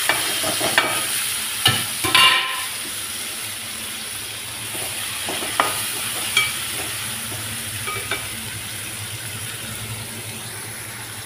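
Chopped onion and tomato sizzling as they fry in oil in an aluminium pan, while a steel spoon stirs them and clinks against the pan several times.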